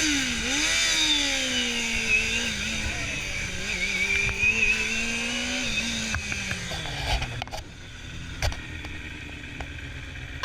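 Motorcycle engine running, its pitch rising and falling with the throttle, then dropping off about six seconds in as the bike slows. After that it is quieter, with a few sharp clicks.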